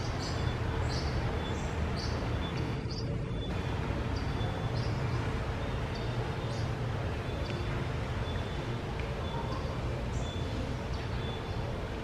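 Short high bird chirps repeating about once or twice a second over a steady low rumble.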